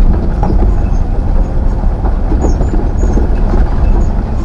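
Truck driving: a loud, steady low rumble of engine and road noise, with light knocks and rattles and a few small high squeaks.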